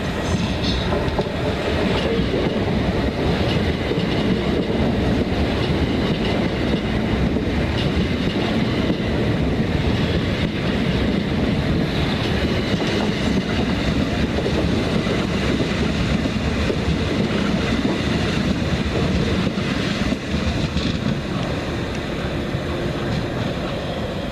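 Passenger train running steadily, a continuous even rumble of wheels on rails with no rise or fall in level.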